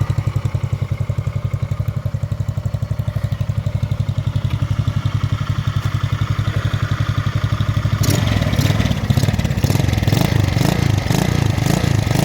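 Go-kart engine idling at a low, even speed, its exhaust pulsing steadily. About eight seconds in, a louder, uneven clattering joins the running engine.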